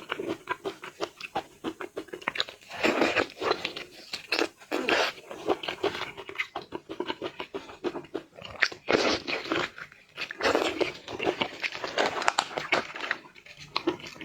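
A person chewing and biting seafood close to the microphone, a dense irregular run of crunches and mouth clicks broken by a few short pauses.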